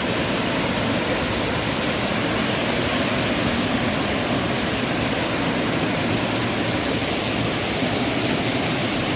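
Waterfall rushing, a loud, steady roar of falling water that does not change.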